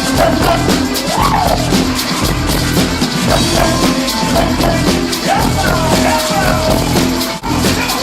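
Live rock band playing with drum kit, bass and a melodic lead line, with a brief dropout a little over seven seconds in.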